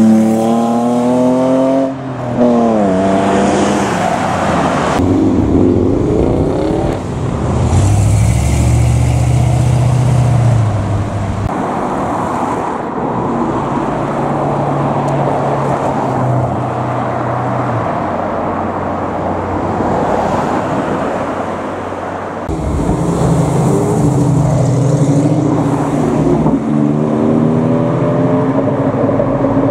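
Cars accelerating hard, their engines revving up in rising pitch several times: near the start, a few seconds in, and again near the end. Between these, engines run at steady revs with a low note, and the sound changes abruptly several times.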